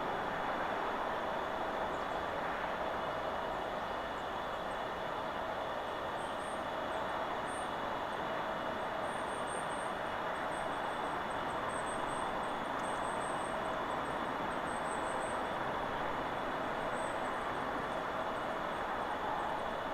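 Steady wind rushing through forest trees, with faint, thin, high bird chirps scattered through the middle.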